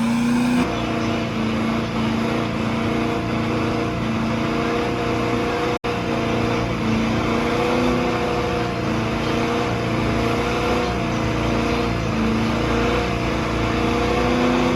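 Truck engine held at high, nearly steady revs during a burnout, the pitch wavering only slightly. The sound breaks off for an instant near six seconds.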